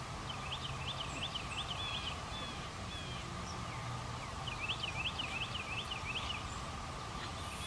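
A songbird sings two bursts of rapid, evenly repeated high notes, one early and one past the middle, over a steady low background hum.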